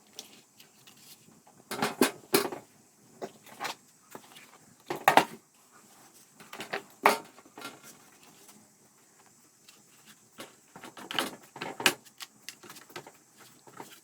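Irregular clicks and knocks of tools and small parts being handled and set down during a pressure washer repair, coming in small clusters with short pauses between.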